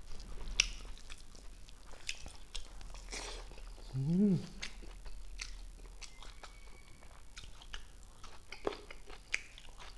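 Close-miked chewing and lip-smacking of a mouthful of rice eaten by hand, with scattered wet mouth clicks. A short hummed "mm" rises and falls about four seconds in.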